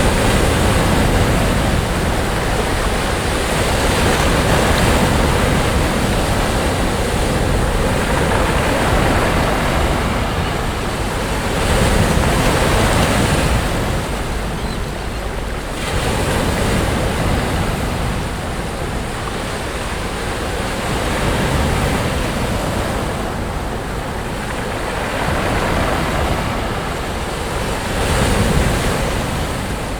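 Sea waves breaking and washing up a beach: a continuous rush of surf that swells and eases every few seconds as each wave comes in.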